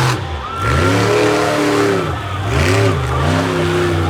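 Monster truck engine revving hard in repeated surges: the pitch climbs and holds, drops about two seconds in, then climbs twice more and holds near the end.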